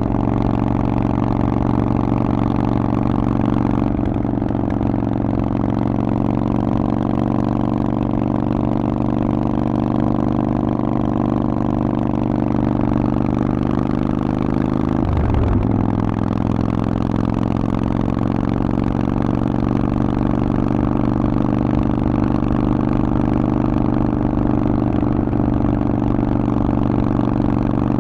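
Harley-Davidson Forty-Eight's 1200 cc V-twin running through a Vance & Hines exhaust while riding at a steady pace. The engine note breaks briefly about halfway through, like a quick gear shift, then carries on steady.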